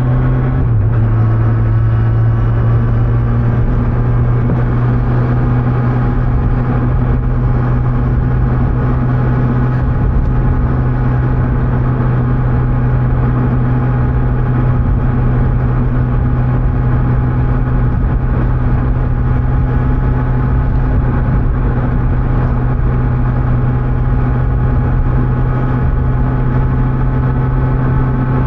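Kawasaki Z900's 948 cc inline-four running under way on the stock exhaust, with wind and road noise. It gears up about a second in, then cruises at a steady engine speed.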